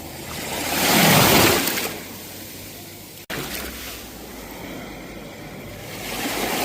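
Sea waves breaking on a shore. One wave surges about a second in and washes back into a quieter lull, and the next begins to build near the end; the sound cuts out for an instant a little after three seconds.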